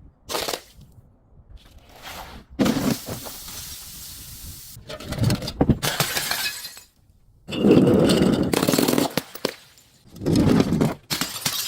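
Glass bottles being crushed and shattering, in several separate bursts of crunching and breaking glass with short pauses between them.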